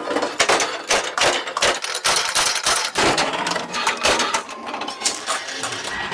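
Irregular metallic clanks and hammer-like strikes of steel parts being worked in a metal shop, about two or three a second.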